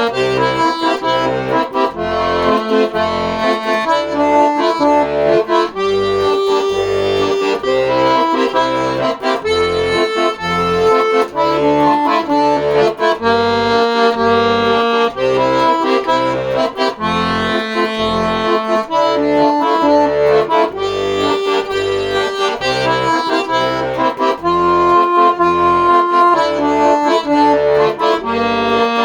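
Accordion playing an instrumental passage: held melody notes and chords over a steady, rhythmic bass accompaniment.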